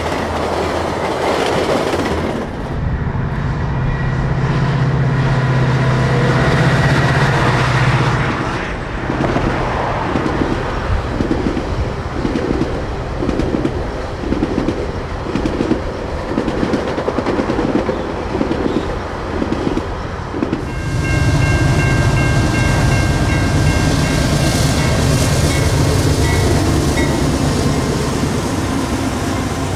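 Trains passing close by. Passenger cars go by first, followed by a long stretch of steel wheels clicking steadily over rail joints, about one click and a third per second. Then a CN freight train's diesel locomotive passes with a steady engine drone and a few thin high whines.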